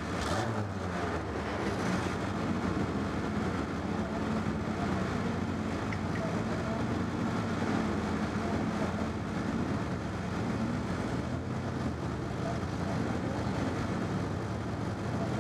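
Stock car engines idling steadily, heard from inside a stock car's cabin, with no revving.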